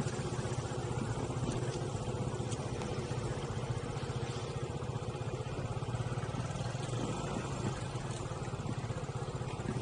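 Motorbike engine running steadily, its low hum even throughout.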